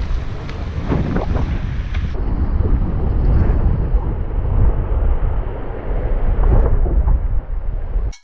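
Wind buffeting a GoPro action camera's microphone on a moving bicycle: a loud, low rumble with a little rustle, which cuts off suddenly at the end.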